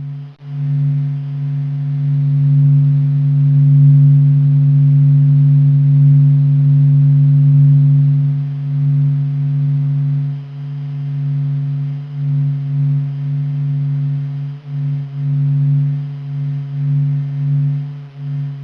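Sonification of the sun's surface oscillations: a deep, low humming sound made of a few steady tones, holding level at first and wavering in loudness in the second half.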